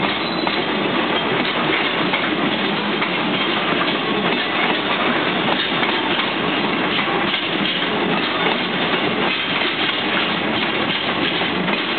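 Container freight wagons rolling past at close range: a steady noise of steel wheels running on the rails, with occasional clacks as the wheels cross rail joints.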